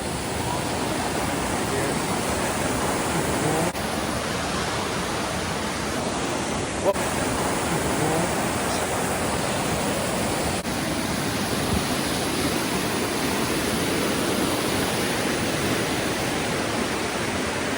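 Steady rushing of a mountain brook's cascading water, loud and even throughout, with three brief dropouts about 4, 7 and 10 seconds in.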